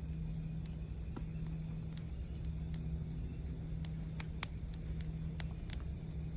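Campfire crackling, with scattered sharp pops over a low rumble, beneath the steady low hum of a singing bowl still ringing from an earlier strike.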